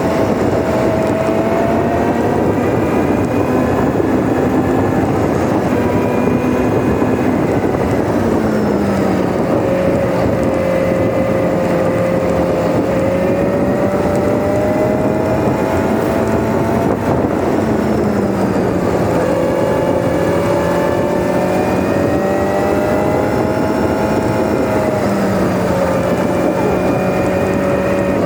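Kawasaki Z900RS inline-four engine heard through an SP Tadao POWERBOX full 4-into-1 titanium exhaust while riding at an easy pace. The note climbs slowly and drops back three times, about every eight seconds, as the rider shifts up. Played at double speed, so it sounds a little higher than it really is.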